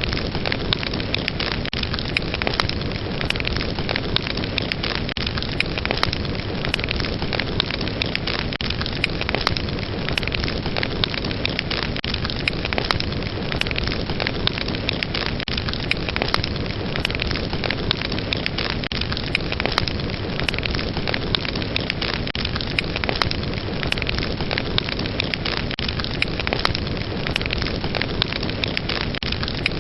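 Fire burning with a steady rush of flames and frequent sharp crackles and pops from the burning wood.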